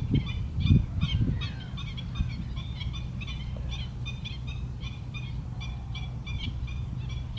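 Birds calling: a continuous chorus of short, high, repeated honking calls, several a second. Under them runs a steady low rumble, with a few low thumps in the first second and a half.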